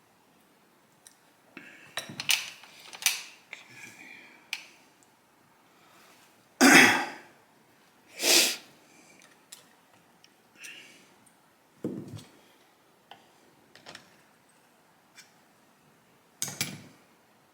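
Light clicks and taps of small metal carburetor parts and linkage being handled and fitted. About halfway through come two louder, short rasping noises, a second and a half apart.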